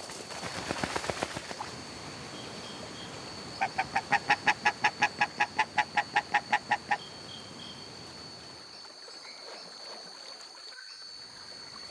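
A duck calling in a quick, even run of about eighteen honking notes, about five or six a second, lasting some three seconds. This follows a brief fluttering noise near the start, over a steady high insect-like drone.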